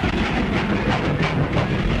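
Moving train running with a steady rapid clatter of wheels over rail joints, dense and unbroken.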